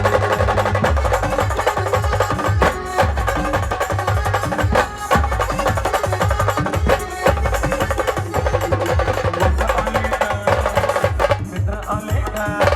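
A Maharashtrian band playing loud music: a melody line over heavy, steady drum beats.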